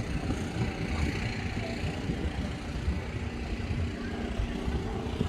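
An engine running steadily, a low continuous hum with a faint droning tone.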